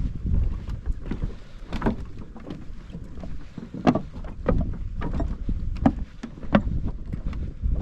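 Wind rumbling on the microphone, with irregular short knocks throughout.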